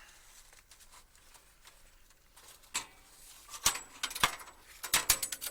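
Band blade being pulled off the wheels of a Woodland Mills HM126 band sawmill. After a quiet start, a few sharp metallic clinks and knocks come in the second half, the loudest about four seconds in.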